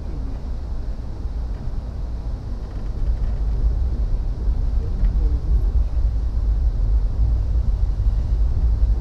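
Steady low rumble of a passenger train running along the track, heard from inside the carriage; it grows louder about three seconds in.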